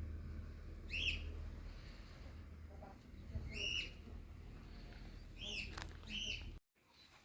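A bird chirping: single short rising-and-falling chirps every couple of seconds, with two close together near the end, over a steady low hum. The sound cuts off abruptly shortly before the end.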